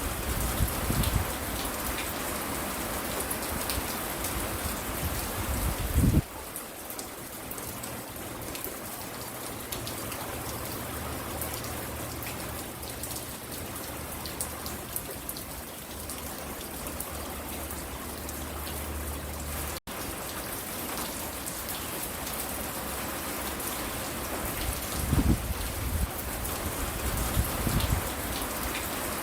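Steady rain falling, with a few low thumps near the start, a sharper one about six seconds in, and more near the end.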